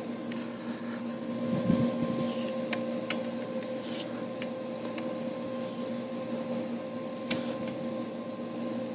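Steady electrical hum from pipe-inspection camera equipment, with scattered light clicks and faint scrapes as the camera head travels down a drain pipe.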